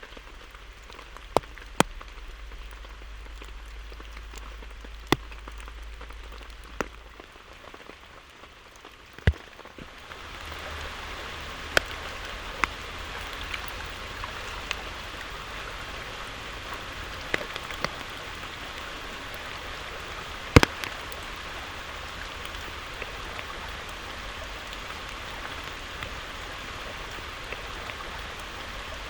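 Steady rainfall with scattered sharp taps of single heavy drops striking a nearby surface. The rain grows louder about ten seconds in.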